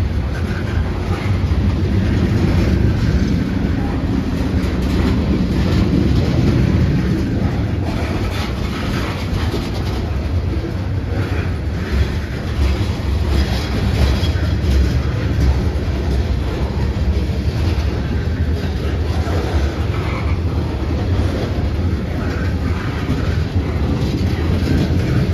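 Loaded coal train rolling slowly past: a steady low rumble of the cars with scattered clicks of wheels over the rail.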